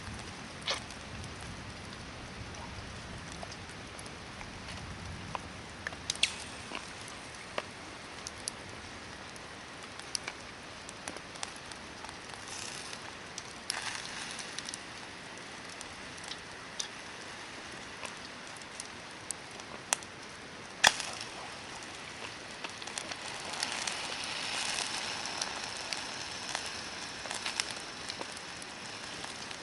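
Hardwood campfire crackling, with a steady hiss and scattered sharp pops, one much louder pop a little past the middle. The hissing swells for a couple of seconds near the end.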